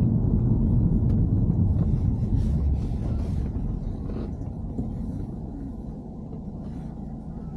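Low rumble of a BMW E90 on the move, louder for the first three seconds or so and then easing off, with a few faint ticks.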